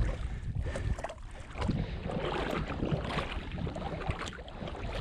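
A duck hunter wading through shallow marsh water, with uneven sloshing steps.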